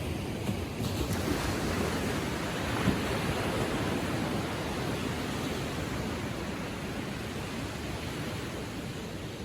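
Gentle ocean waves lapping and washing on the shore, a steady rushing wash that swells a little in the first few seconds and eases slightly toward the end.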